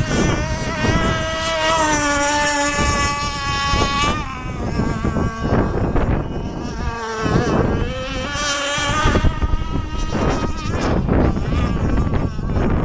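Radio-controlled racing boats' small engines running at high revs with a high-pitched whine, steady for the first few seconds, then wavering and swooping up and down in pitch.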